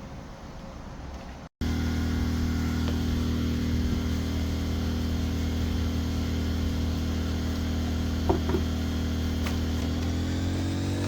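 A steady low machine hum with a strong pitched drone, which starts abruptly after a faint hiss and a brief dropout about a second and a half in; near the end its pitch begins to rise.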